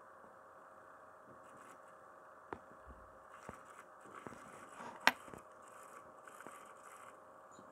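Laptop's 1 TB hard drive running with a faint steady hum, broken by scattered soft ticks and one sharp, loud click about five seconds in. These are strange noises that the owner fears could mean the drive is already failing.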